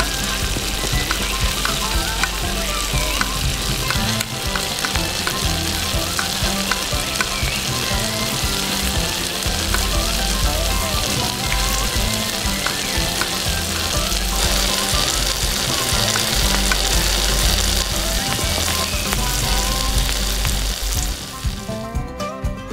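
Hot oil sizzling as food fries in a miniature pan, a steady dense hiss that stops suddenly near the end.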